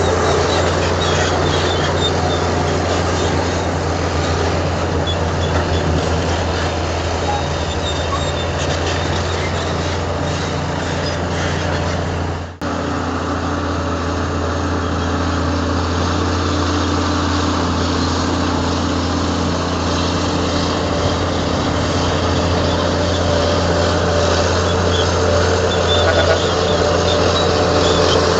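Heavy diesel engine of earthmoving machinery running steadily under load, with a deep, even hum. The sound cuts out for an instant about halfway through, then carries on.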